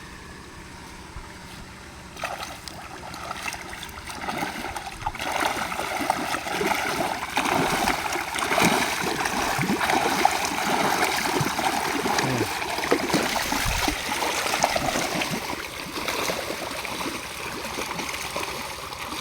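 Water splashing and trickling with a crackling patter. It builds up about two seconds in, is busiest around the middle, then eases off.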